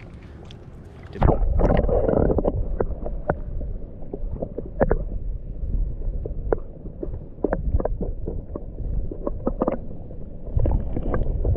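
River water sloshing and gurgling with a heavy low rumble as a trout is let go, with sharp little splashes and knocks on top. It starts suddenly about a second in.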